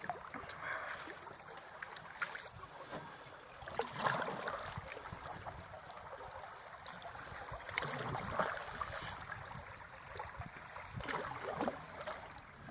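Canoe paddle strokes swishing and splashing through river water, a stroke swelling every three or four seconds, with a few light clicks between them.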